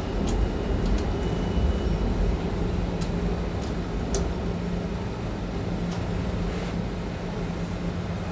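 New York City subway train running, a steady low rumble with a held low hum and a few faint clicks.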